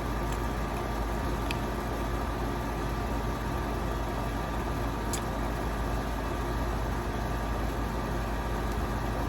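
Steady low mechanical hum, like an idling engine, with a few faint short clicks about a second and a half and five seconds in.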